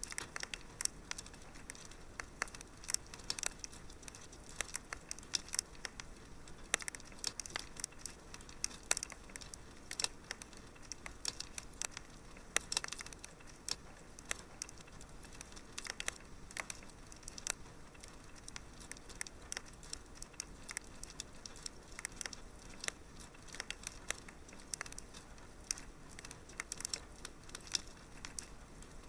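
Wood fire crackling in a fireplace: many irregular sharp pops and snaps over a faint steady background noise.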